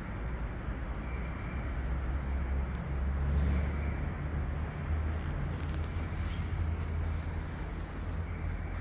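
Engine running steadily: a low, even rumble.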